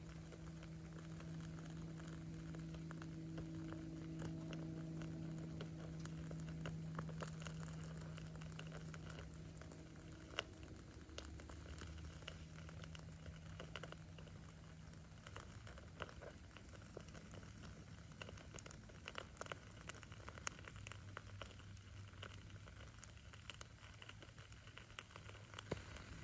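Wood fire crackling, with scattered sharp pops of burning firewood, over a low steady hum that fades out about halfway through.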